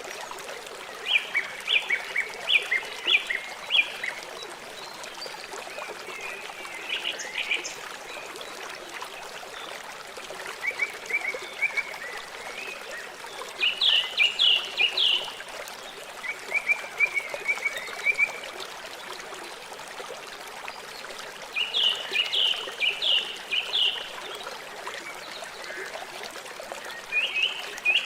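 River water flowing with a steady rushing sound. Over it, a bird repeats short phrases of rapid chirping notes every few seconds, about seven times.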